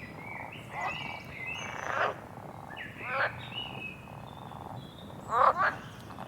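Frogs calling in the jungle: a series of short, loud croaks about a second or more apart, the loudest a quick pair near the end. Thin whistled bird notes sound between them.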